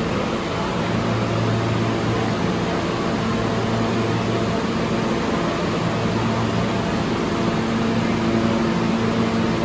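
Steady hum and rushing noise of a New York City subway train standing at the platform, its air-conditioning and onboard equipment running, with low hum tones that fade out briefly midway.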